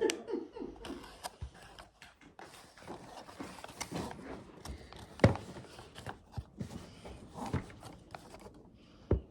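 Scattered light knocks and taps with faint rustling as craft materials are handled on a tabletop, with one sharper knock about five seconds in.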